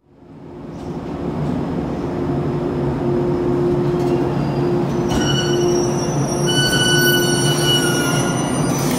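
Shinano Railway 115 series electric train pulling into the platform, its running noise building, then a high squeal from the wheels and brakes from about five seconds in as it slows.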